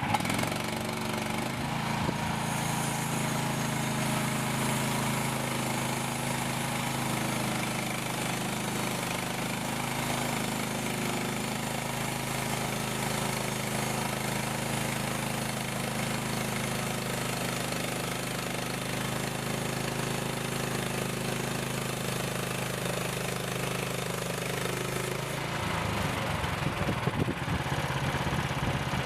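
Engine of a Frontier portable band sawmill running steadily through a cut. About three and a half seconds before the end, the sound changes and a deeper, rougher rumble comes in.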